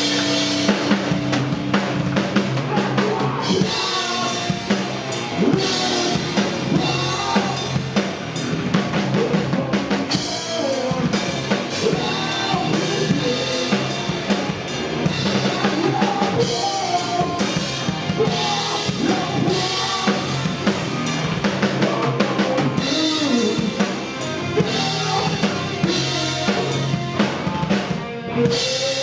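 A heavy rock band playing live, the drum kit with bass drum and snare prominent under dense instruments whose pitches bend up and down.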